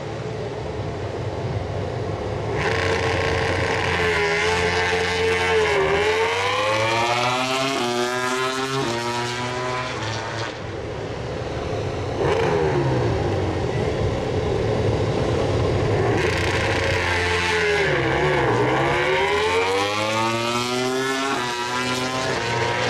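MotoGP race bikes' four-cylinder engines doing practice starts, two in turn. Each is held at high steady revs, dips as the clutch bites, then rises steeply through several quick upshifts as the bike launches away. The second launch comes about two-thirds of the way in.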